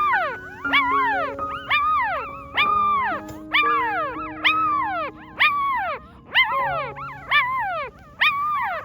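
Puppy whimpering and whining in a fast run of high cries, each rising and then falling, more than one a second, over soft held background music notes.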